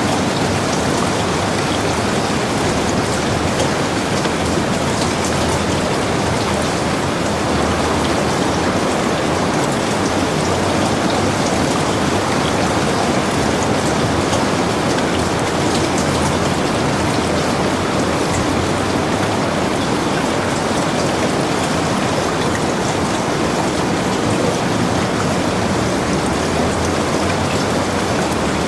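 Heavy rain falling steadily, an even hiss with scattered sharper ticks of single drops.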